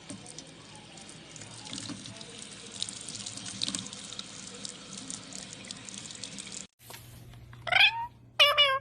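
Water running from a tap, a steady hiss with many small splashes and drips. It stops abruptly, then two short pitched animal calls follow near the end, the first rising in pitch.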